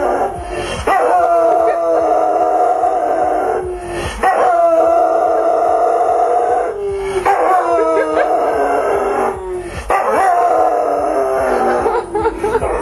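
A dog and a man howling together in long, held howls of about three seconds each, with short breaks between them, two voices at different pitches overlapping.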